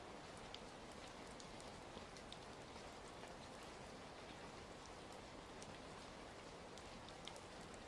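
Soft, steady rain with scattered small crackles and pops, mixed with fire crackling.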